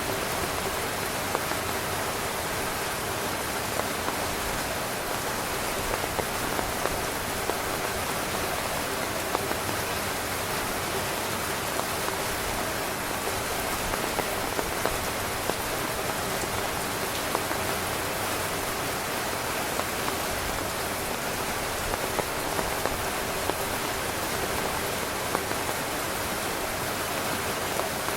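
Steady heavy rain falling on a tent: an even hiss with scattered louder drop taps.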